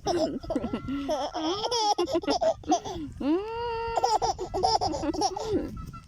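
Baby laughing and babbling in high-pitched bursts, with one long drawn-out high note near the middle.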